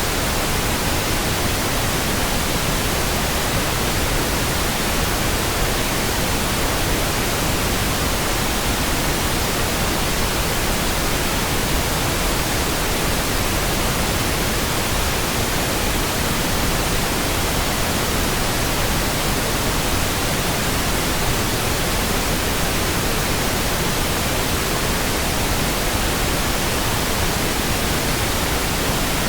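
Steady pink noise: an even, unchanging hiss spread across all pitches, with no tones, clicks or changes.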